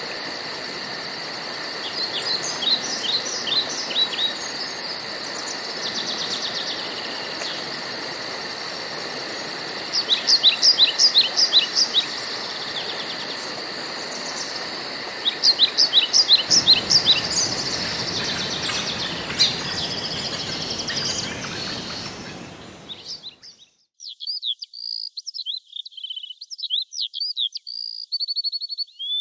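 Songbirds singing in short phrases of quick, repeated notes over a steady rushing background, with a fast, high pulsing buzz like insects. About 23 seconds in, the background noise cuts off abruptly and only rapid bird chirping remains.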